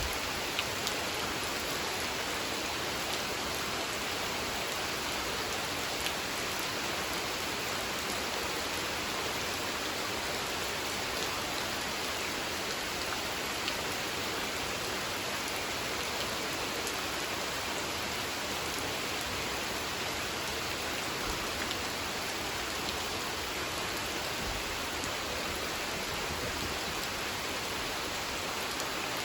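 Gentle, steady rain falling on and around a spring-fed pond: an even hiss with a few sharper drop ticks scattered through it.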